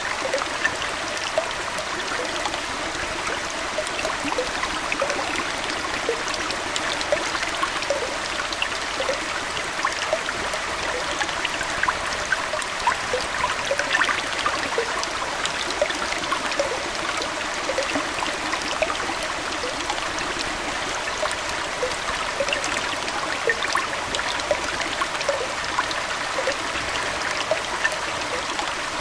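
Aquarium water trickling and splashing steadily, like a small stream, with many small drips and plinks scattered throughout.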